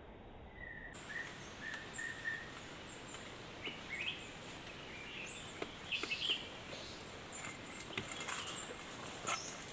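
Small birds chirping and calling in many short, high notes that overlap, with a few light clicks in the second half.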